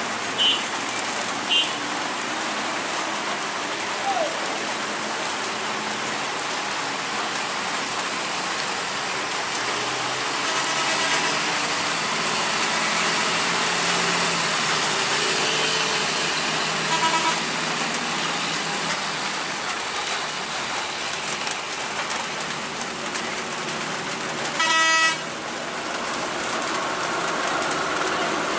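Vehicle horns honking over steady heavy rain and running traffic: two short high toots near the start, another midway, and a louder, longer blast near the end.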